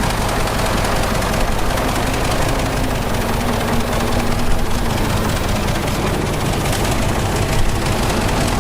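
Heavy diesel earth-moving machinery running steadily, a continuous low engine drone.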